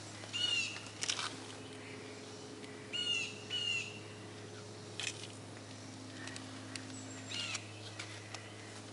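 A bird calling outdoors: short, high, chirping calls in small groups of two or three, heard several times over a steady low hum.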